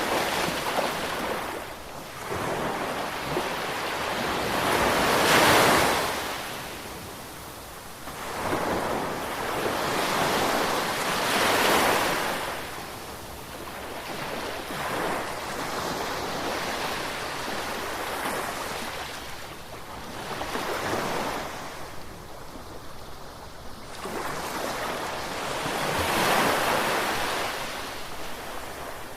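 Ocean surf: waves breaking and washing in, swelling and falling away about every five to six seconds, some surges louder than others.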